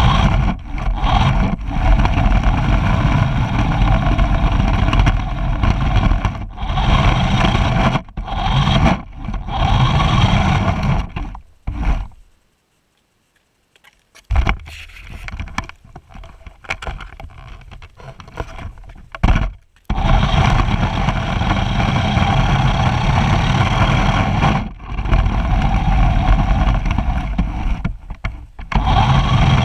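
Race car engine running hard, heard on board, with wind on the microphone and many short dips in level. About twelve seconds in the sound cuts out almost completely for about two seconds, then runs much quieter for about six seconds before the full engine sound returns.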